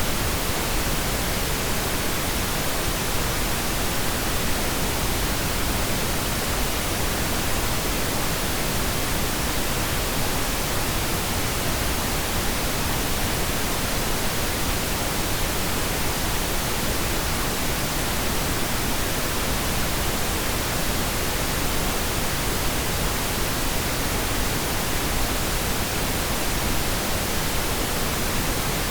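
Steady pink noise: an even, unbroken hiss spread across all pitches, heavier in the lows than white noise, with no change in level.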